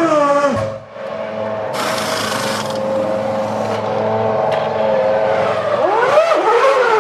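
Formula One car's 3.0-litre V10 engine at high revs, holding a steady high note for several seconds, then sweeping quickly up and down in pitch near the end. A short hiss breaks in about two seconds in.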